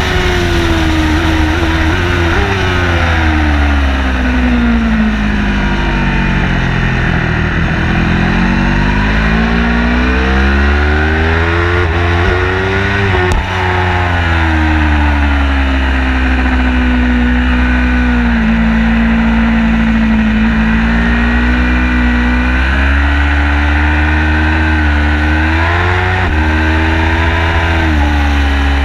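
Car engine driven hard around a racetrack lap. The revs sweep down and up repeatedly with braking and acceleration: falling over the first several seconds, climbing again to about halfway, dropping, holding steady for a stretch, then rising near the end.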